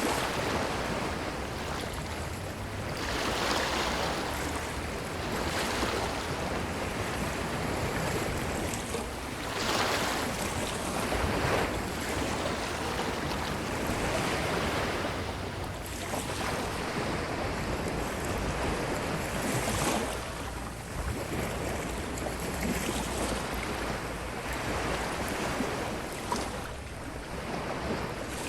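Ocean waves breaking and washing up a sandy shore: a continuous surf hiss that swells with each wave every few seconds and then draws back, over a low rumble of wind.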